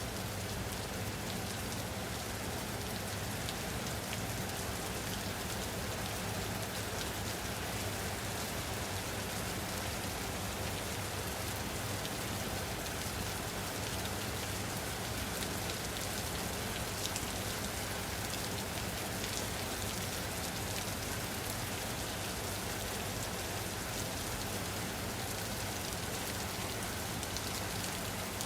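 Steady rain falling on a surface, an even hiss of drops with no break or change.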